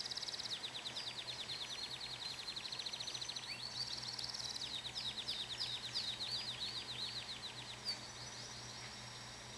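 Pet canary singing: fast trills of rapidly repeated high notes, switching from one trill to another every second or two, and stopping shortly before the end.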